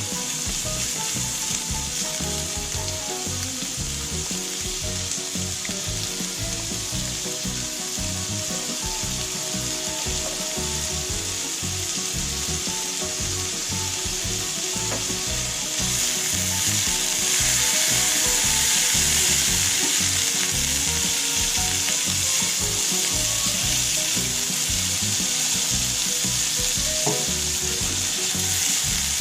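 Khanom Tokyo pancake batter frying on a hot pan, a steady sizzle that gets louder about halfway through.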